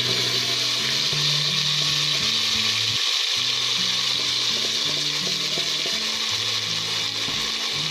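Onion, garlic and ginger paste frying in hot oil in a steel pot, giving a loud, steady sizzle as it is stirred with a spatula. Background music with low held notes plays underneath.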